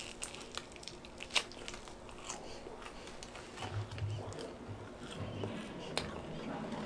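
Close-up chewing of a bite of crunchy fried pizza crust, with a few sharp crunches scattered through it.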